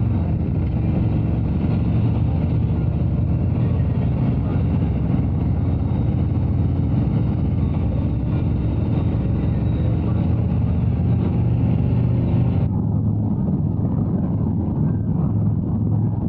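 Harley-Davidson Road Glide V-twin engine running steadily at cruising speed, with road and wind noise. The higher hiss drops away suddenly near the end while the low engine drone carries on.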